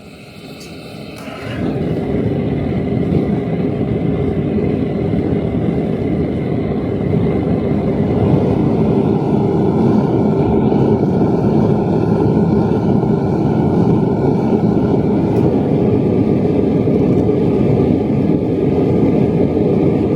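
A machine motor spinning up over the first two seconds, then running steadily with a constant hum.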